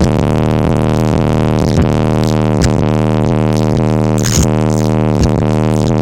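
Bass-heavy music played loud through a car audio system's two Accendant Audio Chaos 12-inch subwoofers, with a deep, steady bass note under it.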